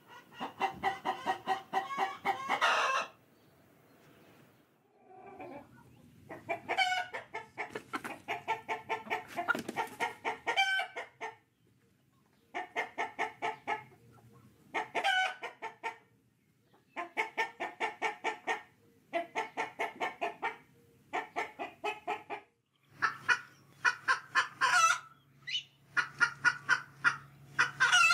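Chickens clucking in about nine short bouts of rapid clucks, each a second or two long, with brief pauses between.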